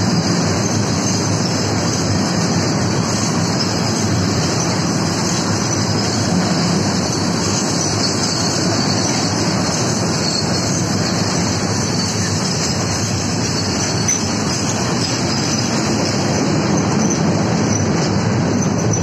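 Train running close past on the track: the wheels and wagons of a freight train of tank wagons followed by a passenger coach make a steady, unbroken rumbling noise.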